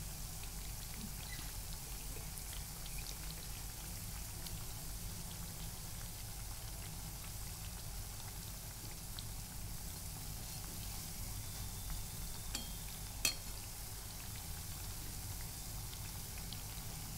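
Urad dal and colocasia-leaf vadas sizzling steadily in hot oil in an iron kadhai, with faint scattered crackles. A single sharp click about three-quarters of the way through.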